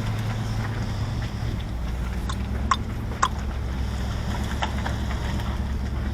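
Car driving slowly, a steady low rumble of engine and road noise heard from inside the cabin, with a few short light clicks or knocks between about two and five seconds in.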